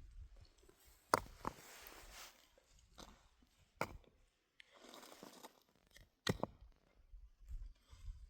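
Scattered sharp knocks and clicks, about six in all, with two short spells of crunching, rustling noise between them, like objects being handled close by.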